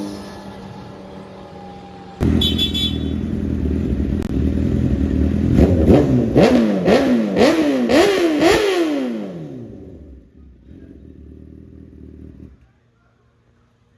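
Sport motorcycle engine revved hard several times in quick succession, its pitch zigzagging up and down about six times, then fading away to a low hum.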